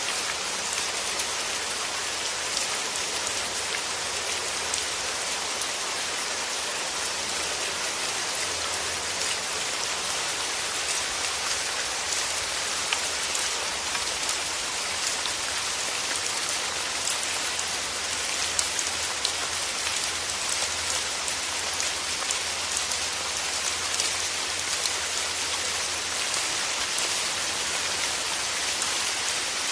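Steady rain falling, a constant hiss with many small drop ticks and pats on surfaces.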